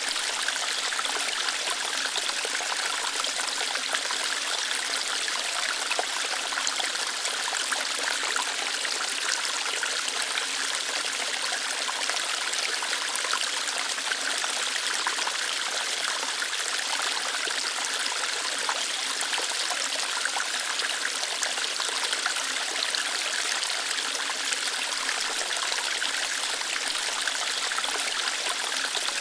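Small waterfall of water running and splashing over rocks: a steady hiss of flowing water, mostly in the upper range, without pauses or changes.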